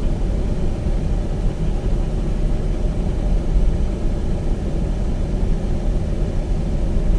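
Steady road noise inside an SUV's cabin while it drives: a low rumble of engine and tyres.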